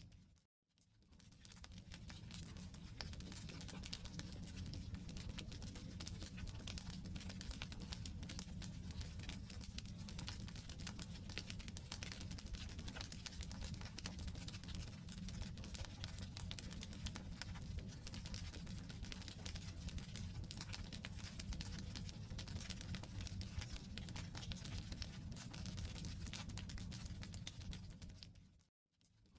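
Wood campfire burning: dense, irregular crackles and pops from the firewood over a steady low rush of flame. The sound briefly fades out to silence just after the start and again near the end.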